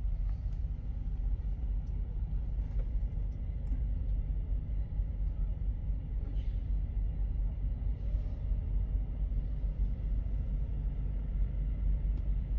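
Steady low rumble of an idling truck engine, with a few faint ticks.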